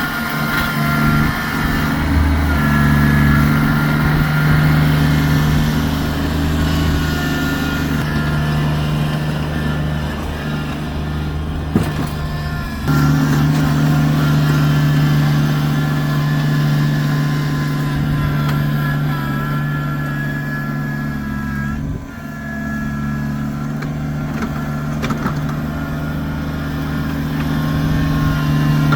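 Kubota tractor engine running steadily under load, its note dipping briefly about halfway through and again about three-quarters of the way in.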